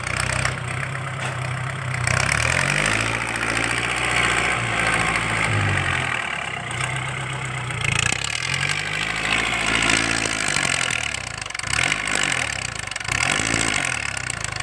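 L50's non-turbo engine revved up and down several times through an open, straight-through aftermarket exhaust, loud and blaring. Slower revs come first, then quicker blips near the end.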